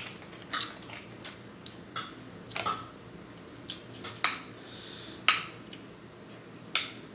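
Cutlery knocking against plates and bowls during a meal: a string of separate sharp clinks, roughly one a second, the loudest about five seconds in.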